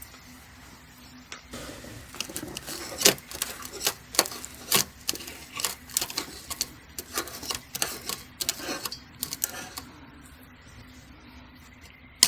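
An irregular run of sharp taps and clicks, some louder than others, starting about a second and a half in and stopping near ten seconds.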